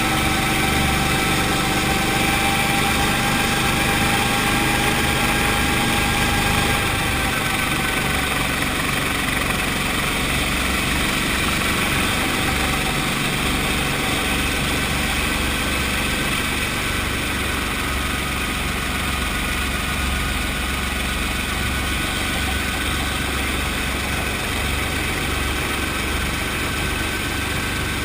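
Brantly B-2B helicopter's Lycoming four-cylinder piston engine and rotor drive running steadily with a low rumble and a whine. The whine and the overall level drop slightly about seven seconds in.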